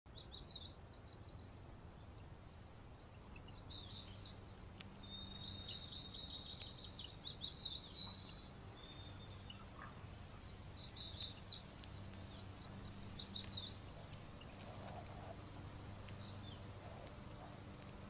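Faint birdsong: scattered high chirps and a trill lasting a few seconds, over a low steady hum.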